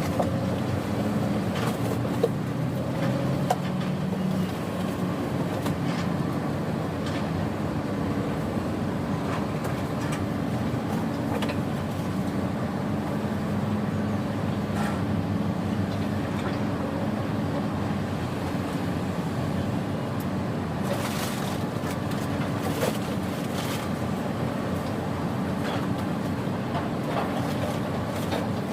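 Tugboat diesel engine running steadily, a low hum with a few light knocks and a short hiss about 21 seconds in.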